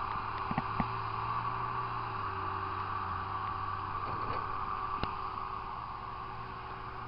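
Heavy diesel earthmoving equipment running steadily, with a few short clanks, one about five seconds in.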